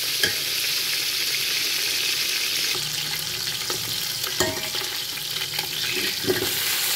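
Chicken pieces and fried onions sizzling in hot oil as the meat is browned, stirred with a metal ladle that scrapes and knocks against the metal pot a few times.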